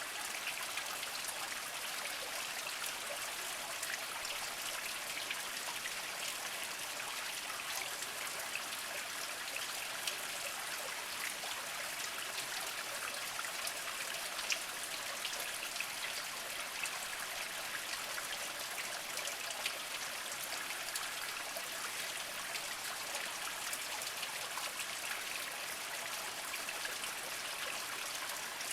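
A small spring trickling slowly over mossy rocks: a steady water sound dotted with many small drips and splashes.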